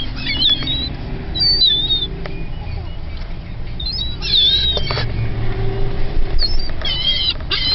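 Gulls calling: short, high, wavering calls come every second or so, in loose clusters, over a steady low rumble.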